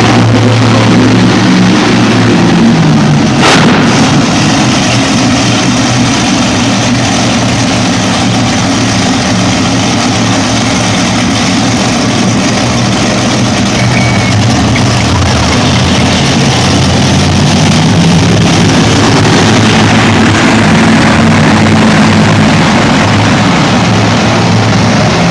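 Loud truck engine running and revving, its pitch rising and falling, with a single sharp bang about three and a half seconds in.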